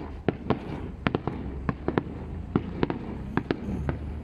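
Distant aerial firework shells bursting in quick, irregular succession: about fifteen sharp bangs over a steady low rumble.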